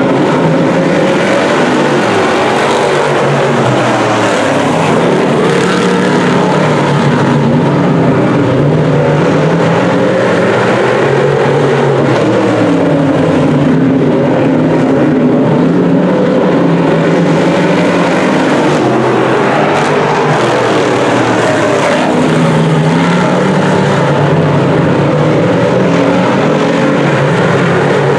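A pack of DIRTcar Sportsman dirt-track race cars' V8 engines running hard together, the engine notes rising and falling over and over as the cars accelerate and lift around the oval.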